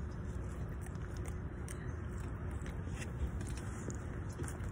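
Close-up chewing and biting of chili cheese fries, with small wet mouth clicks, over a steady low rumble. Near the end a plastic fork scrapes in the foam container.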